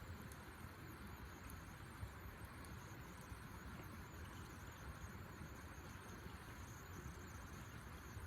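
Faint, steady outdoor background noise with a faint high hum, and one small click about two seconds in.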